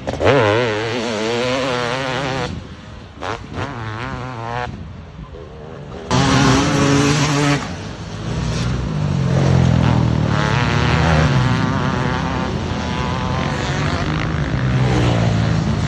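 Two-stroke motocross bike engines revving up and down hard under racing, the pitch wavering as the throttle is worked. The sound changes abruptly a couple of times, with a brief drop-off around five seconds in.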